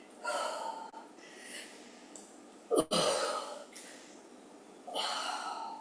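A woman breathing hard during exercise: three heavy breaths about two seconds apart, with a short sharp sound just before the second.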